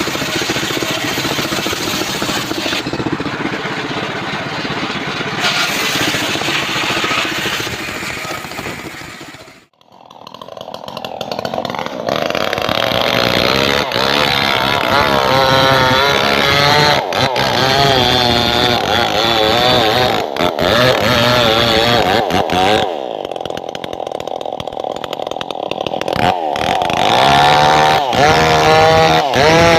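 Engine-driven saw cutting trembesi (rain tree) wood, its pitch wavering up and down as the blade takes and eases off the load. The sound drops away sharply for a moment near ten seconds in, then comes back and runs on.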